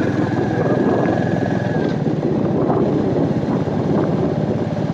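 Royal Enfield Meteor 350's single-cylinder engine running steadily, its even firing pulses mixed with road and wind noise.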